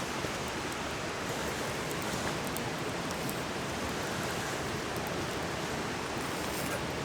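Steady rush of a mountain stream, with a few faint crackles from the campfire.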